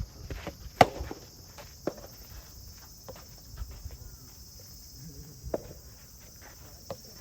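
Cicadas droning steadily in a high, continuous chorus, with scattered sharp clicks and knocks over it, the loudest about a second in.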